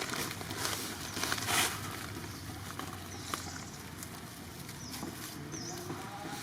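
Outdoor ambience with a few short rustling bursts in the first two seconds, then brief high chirps or squeaks near the middle and again near the end.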